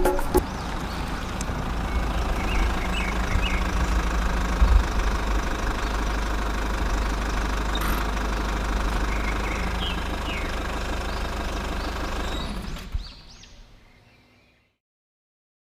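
Small motor-driven machine running steadily with a low rumble, fading away about thirteen seconds in and falling silent.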